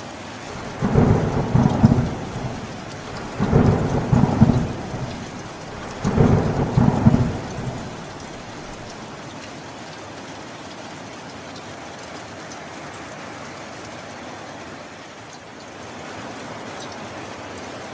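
Thunderstorm: three rolls of thunder in quick succession, each rumbling for a second or two, over steady rain that then goes on alone.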